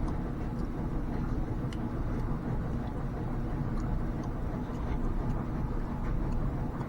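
Steady low hum of a smoke machine's air pump running, pushing smoke into the engine intake during a vacuum-leak test, with a few faint ticks now and then.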